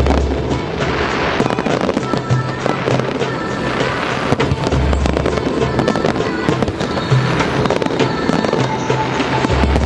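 Electronically fired aerial fireworks crackling and popping densely and without a break, with music playing underneath. A deep low thud comes about every five seconds.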